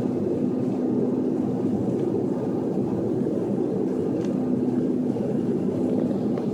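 Sukhoi Superjet 100 airliner during its landing, a steady rumbling hum from its PowerJet SaM146 turbofans and the airflow, with a faint steady low tone running through it.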